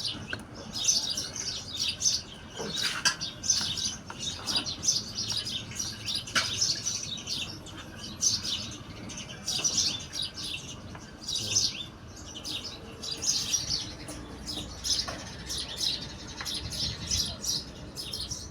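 Small birds chirping over and over in quick, irregular bursts, with a few faint knocks in between.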